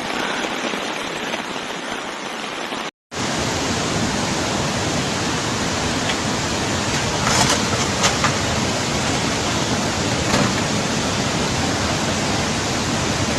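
Steady rushing of floodwater, a loud even roar of water. It cuts out for a moment about three seconds in, then comes back fuller.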